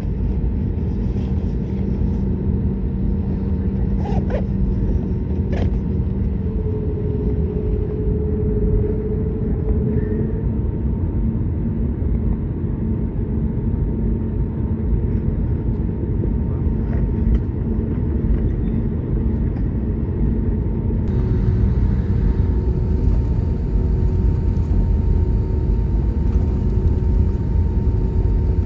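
Cabin noise inside an Airbus A320neo heard from a window seat: a steady, loud rumble of engines and airflow, with steady hums that shift pitch a couple of times, and two faint clicks about four and five and a half seconds in.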